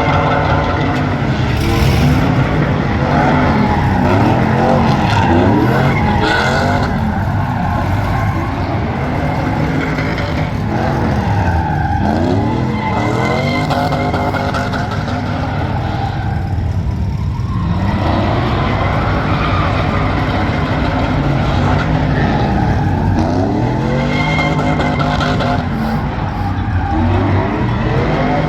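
Truck engine revving hard, its pitch rising and falling over and over every second or two, over the squeal of spinning tyres in a burnout.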